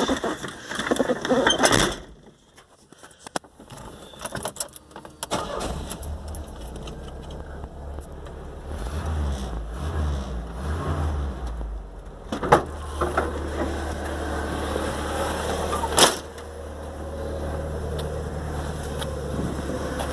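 Truck engine running through a Kawasaki muffler fitted with a throttle valve: after some clatter and clicks, a low engine rumble comes in about five seconds in, swells around the middle, then settles to a steady idle, with a couple of sharp clicks.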